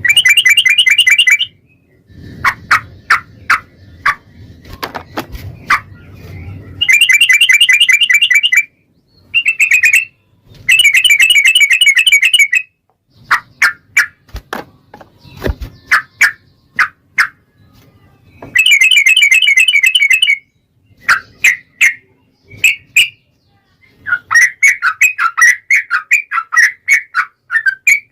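Yellow-vented bulbul singing: loud bursts of rapid, bubbly chattering about two seconds long, repeated several times, with short single notes in between.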